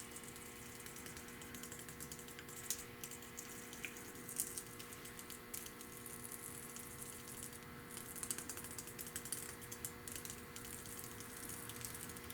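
Paint tape being peeled off a freshly painted engine fan: a faint crackling hiss broken by scattered sharp clicks.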